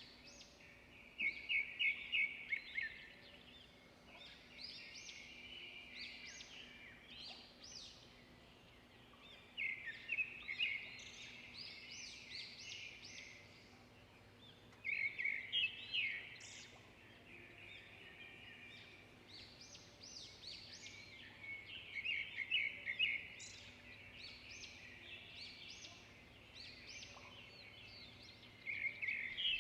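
Songbirds singing: loud phrases of rapid chirps and trills come every six or seven seconds, with softer chirping between them.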